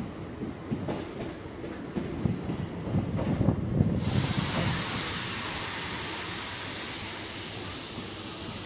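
Ride noise of a suburban electric train heard from on board: wheels rumbling and knocking over the rail joints. About four seconds in, a loud steady hiss starts suddenly and slowly fades.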